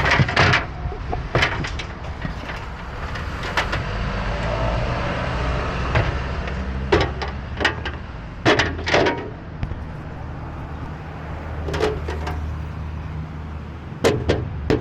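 A vehicle engine running with a steady low rumble, overlaid by a dozen or so scattered sharp knocks and clunks.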